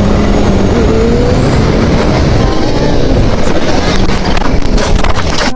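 Motorcycle riding at speed: the engine runs under heavy wind noise on the microphone. The engine note rises briefly about a second in, and a run of sharp crackles comes in the last second or so.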